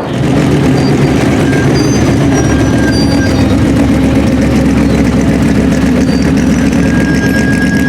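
Off-road race truck's engine running steadily at an even speed, without revving.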